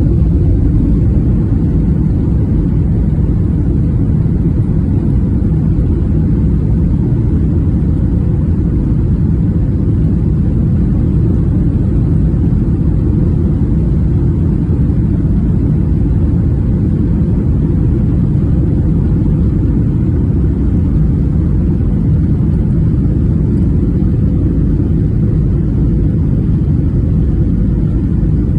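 Steady low rumble of an airliner cabin in flight, engine and airflow noise, with a faint steady hum in it.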